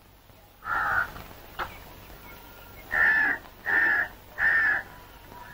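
A bird calling four times: one call about a second in, then three evenly spaced calls in a row about three seconds in.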